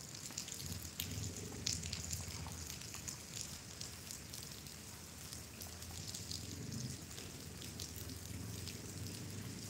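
Light rain falling, scattered drops ticking close to the microphone over a low rumble.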